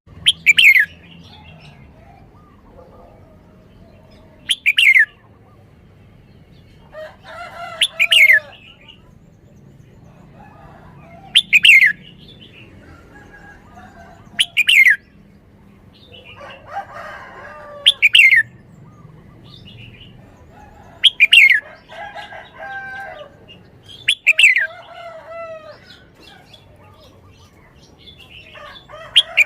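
Caged red-whiskered bulbul singing: a loud, sharp falling call about every three seconds, with softer warbling phrases between them.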